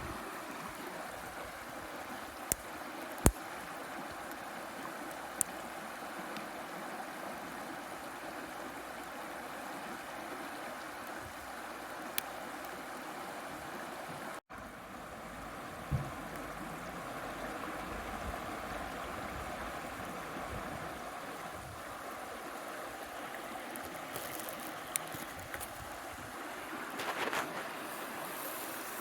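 River flowing steadily over stones, with a few sharp clicks and a single knock from handling gear or the fire.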